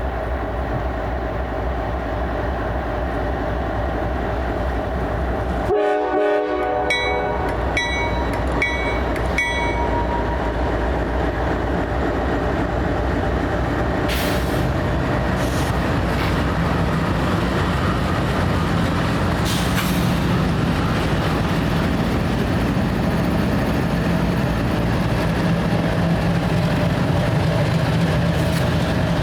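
Diesel locomotives and cars of a freight train rolling slowly past with a steady low rumble. About six seconds in a locomotive horn sounds briefly, along with a few seconds of repeating high ringing tones. Later come a few sharp clanks and a rising engine hum as the locomotives draw near.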